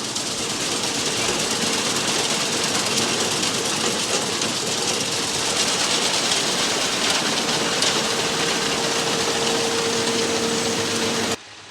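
Tractor engine running steadily while pulling a working straw baler, a dense mechanical noise with a faint steady hum. It cuts off suddenly near the end, giving way to a quieter sound.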